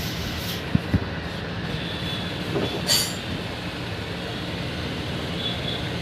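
Steady mechanical rumble and hiss, with two short low thumps about a second in and a sharp metallic clink near the middle.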